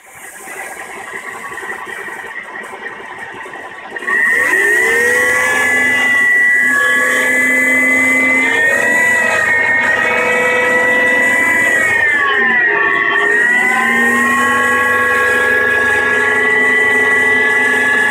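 Mercedes-Benz W211 E-Class engine running with a loud whine of several steady tones that sets in suddenly about four seconds in; near the middle its pitch dips and comes back up. The owner suspects the oil pump may be the cause.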